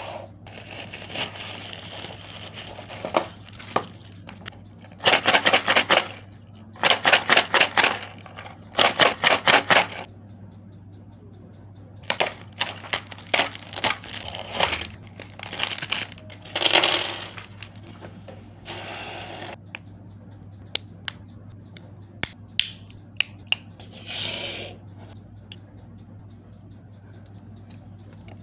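Toy packaging being handled and opened: plastic and cardboard rustling, tearing and clicking. Three loud runs of rapid clicks in the first third, then scattered rustles and single sharp clicks, over a steady low hum.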